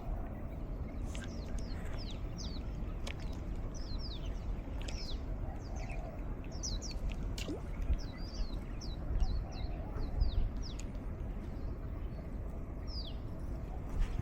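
Small birds chirping in a steady run of short, quick, falling notes, over a constant low rush of wind.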